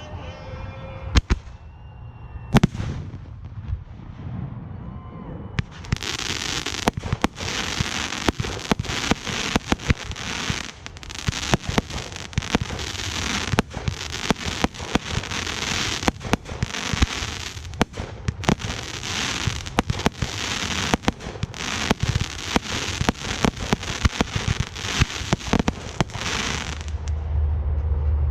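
Aerial fireworks display: two single sharp bangs in the first few seconds, then from about six seconds in a dense, continuous barrage of rapid reports that stops suddenly shortly before the end.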